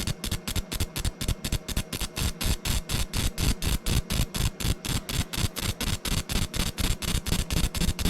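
A machine running with a fast, even pulse of about six strokes a second over a steady hum, in a coin-making shop.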